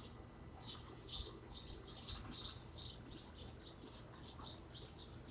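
A bird chirping: short, high chirps coming in quick, uneven runs of about two or three a second, over a faint low hum.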